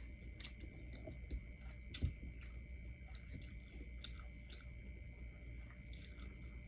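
A person chewing food, with scattered soft wet mouth clicks and smacks, the loudest about two seconds in, over a faint steady high whine.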